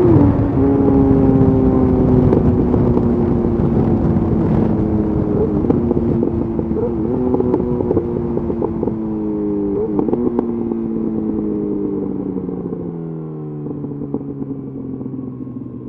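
Yamaha FZ8's inline-four running through a LeoVince exhaust with the dB killer removed. The note drops at the start, then falls slowly as the bike slows off the throttle, with a few crackles from the exhaust. About 13 seconds in it steps down to a lower, quieter note near idle.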